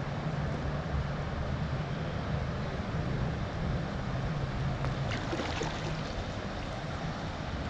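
Steady rushing of river water with a low rumble underneath, and a short cluster of sharper, crackling sounds about five seconds in.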